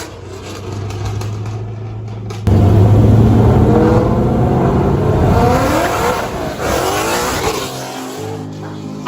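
Modified tuner car accelerating hard, its engine climbing in pitch in several rising sweeps as it revs up through the gears. The engine gets suddenly much louder about two and a half seconds in.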